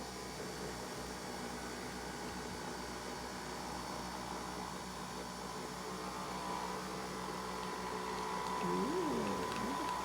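Nespresso VertuoPlus coffee machine brewing a capsule: a steady motor hum from the spinning capsule and pump. It grows a little louder after about eight seconds, with a wavering pitch near the end.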